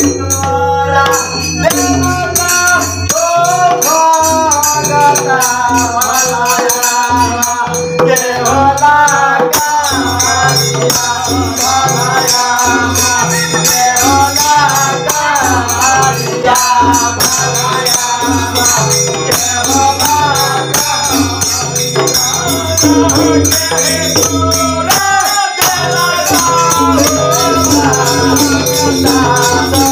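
Folk devotional bhajan sung live by a male voice over a steady hand-drum beat, with jhal hand cymbals clashing in rhythm throughout.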